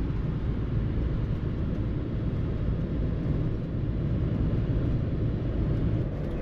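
Motorhome driving: a steady low rumble of engine and road noise, with the engine note shifting near the end.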